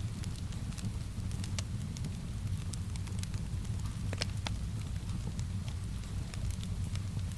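Wood fire crackling, with many sharp, irregular pops over a steady low rumble, mixed with soft, steady rain.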